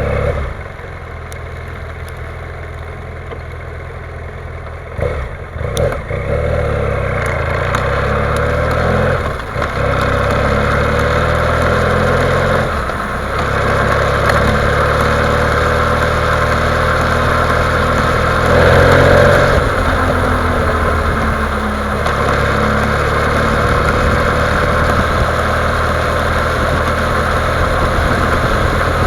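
BMW F800 GS parallel-twin engine running at idle, with the revs rising and falling briefly a few times. Through it comes a knocking noise whose cause the owner does not know.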